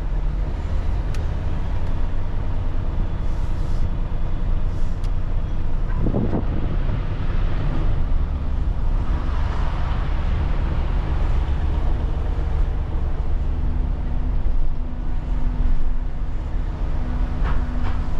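Truck engine running with a steady low rumble, a single knock about six seconds in, and a steady hum joining about three-quarters of the way through.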